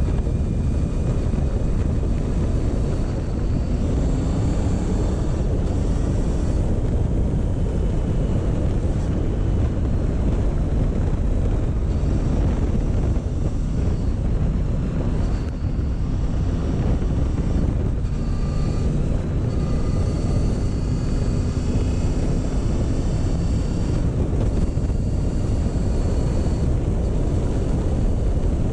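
Motorcycle engine running steadily on the move, with its pitch drifting gently up and down, under heavy wind rumble on the microphone.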